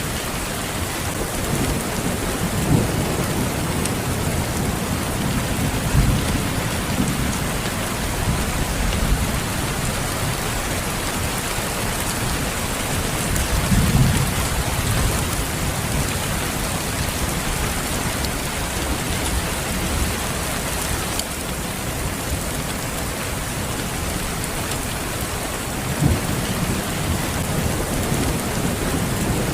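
Steady rain falling, with low rumbles of thunder rolling through several times: a few seconds in, most strongly around the middle, and again near the end.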